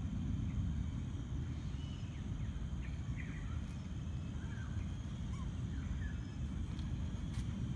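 Several short, faint bird chirps and whistles over a steady low outdoor rumble.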